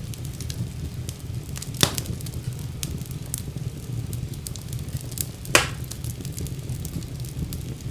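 Wood fire burning in a fireplace: a steady low rumble of flames with constant small crackles, and two louder pops, about two seconds in and again past the halfway point.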